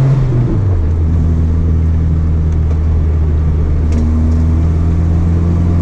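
Rally car engine heard from inside the cabin, running hard under load. Its note drops sharply about half a second in, then holds steady.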